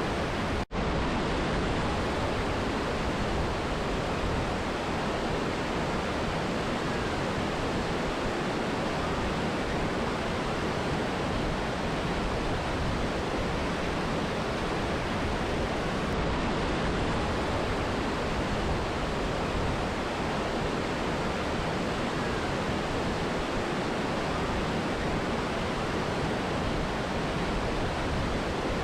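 Steady rush of a waterfall and mountain river, an even wash of water noise, broken once by a split-second dropout near the start.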